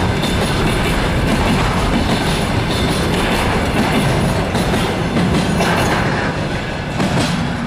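Intermodal container freight train passing close at speed: a steady loud rumble of flat wagons with the clatter of wheels on the rails, easing slightly near the end.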